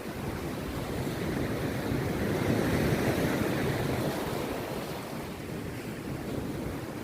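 Rough sea surf breaking on a beach: a steady rushing wash with a low rumble, swelling to a louder surge about halfway through and then easing back.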